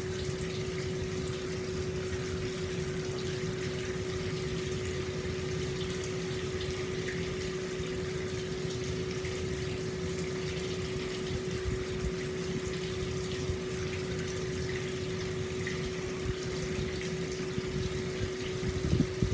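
Hot spring water flowing steadily into an open-air bath, with a constant low hum underneath and a few sudden louder sounds near the end.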